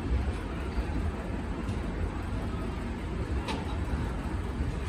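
LHB passenger coaches rolling past on the rails, a steady low rumble of wheels on track, with one brief sharp click about three and a half seconds in.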